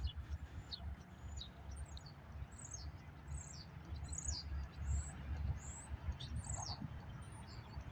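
Small birds chirping: a run of short, high, falling chirps, about two a second, over a steady low rumble.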